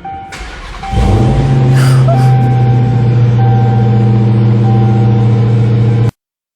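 Dodge Hellcat's supercharged V8 starting up, catching about a second in and settling into a loud, steady idle. It cuts off suddenly near the end.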